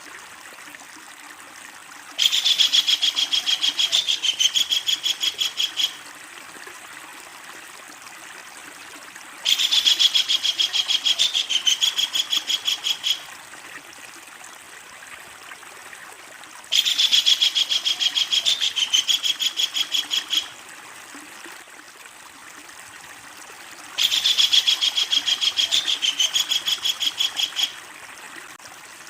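Kingfisher giving its long rattling call: four bouts of rapid, evenly repeated high notes, each lasting about four seconds and coming about every seven seconds, over a steady background hiss.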